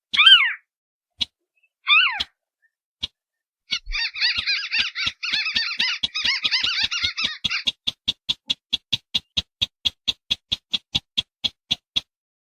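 Recorded lure calls of crakes, a mix of sintar beker and white-browed crake. Two sliding downward calls come first. A dense, fast chattering follows from about four seconds in, then gives way near eight seconds to an even run of sharp ticks, about five a second.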